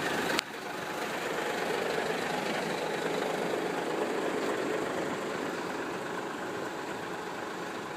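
Hino 700 2844 truck's diesel engine idling steadily. There is a sudden drop in level about half a second in.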